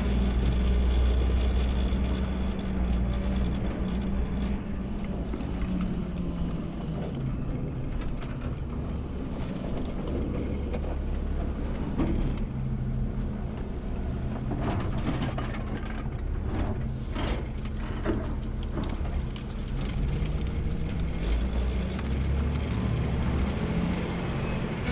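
Automated side-loader garbage truck's engine running, heard from the cab, louder at the start and again near the end. A few sharp clanks and knocks come in the middle.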